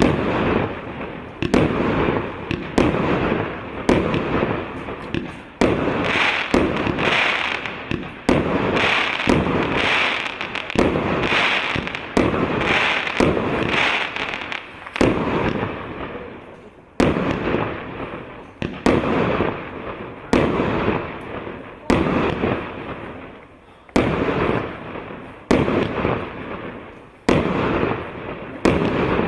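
A 168-shot, 1.25-inch consumer fireworks cake firing in a steady sequence, a sharp report roughly every second, each trailing off in a fading rush of noise. Through the middle stretch the shots come denser and brighter.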